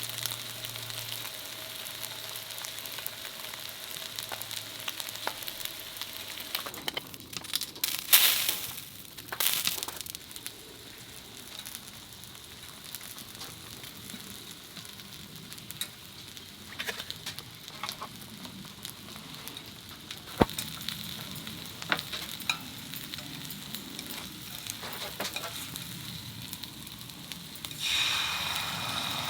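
Food sizzling in a hot frying pan, with scattered clicks and a couple of louder clatters of utensils against the pan. The sizzle gets louder near the end.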